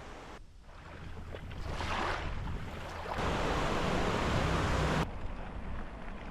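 Steady outdoor rushing noise that jumps abruptly in level and character several times, about half a second in, around three seconds and around five seconds.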